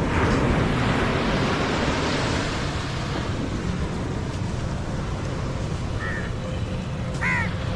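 Airplane flying low overhead, a steady noise of engines, with two short high chirps near the end.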